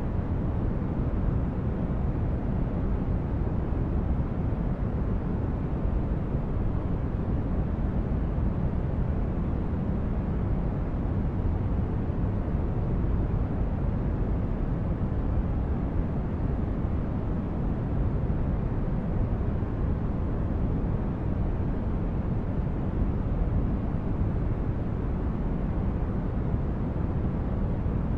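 Continuous relaxation noise track: a steady, deep rumbling hiss, strongest in the low end, with no change in level or pitch.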